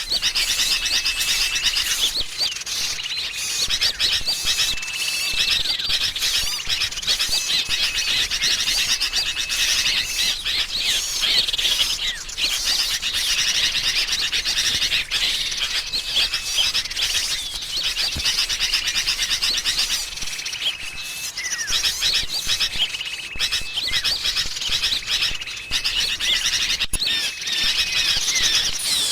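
Dense, continuous chorus of agitated sooty-headed bulbul calls mixed with small-bird chirps and twitters, a bird-trapping lure recording. A thin, held whistle note recurs every few seconds through the chatter.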